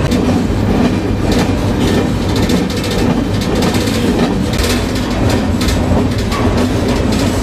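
Freight train rolling along, heard from aboard a freight car: a steady low rumble of the steel wheels on the rails, with irregular clacking and rattling of the car throughout.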